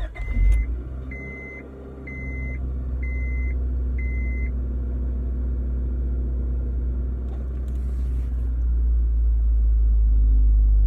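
A car's newly replaced engine starts and settles into a steady idle, a little louder than the engine it replaced, and its rumble rises near the end. For the first few seconds a dashboard chime beeps about once a second over it.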